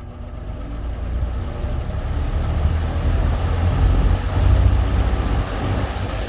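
Vintage Eskimo three-bladed box fan starting up on high, its motor and blades gathering speed so the air noise grows louder over the first few seconds, then holds steady. Heard close to the motor, with a deep rumble under the rush of air.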